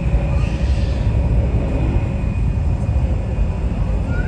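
Jet airliner engines running loud: a steady low rumble with a faint high whine above it.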